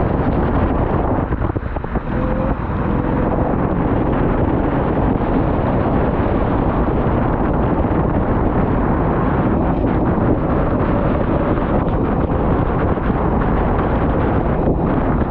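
Steady rumbling wind buffeting on the microphone over a vehicle running, with a brief lull about two seconds in.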